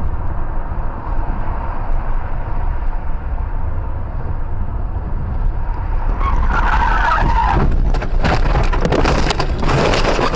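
Car driving with steady road and engine rumble, then tyres squealing under hard braking about six seconds in, followed by a loud collision with crunching, clattering impacts near the end.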